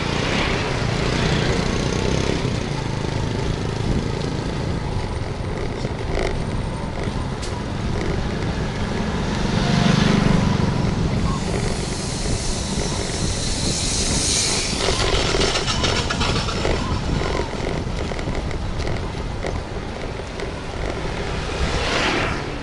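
Street traffic and wind noise heard while riding along a road, with vehicles passing. The loudest is a low rumble about ten seconds in, then a brief hiss a few seconds later.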